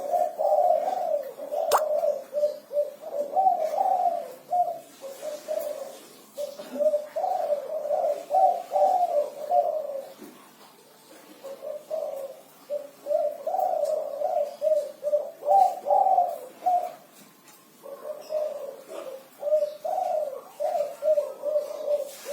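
Spotted dove (derkuku) cooing a 'kuk 5' song: repeated low coo phrases come in four long bouts, with short pauses between them.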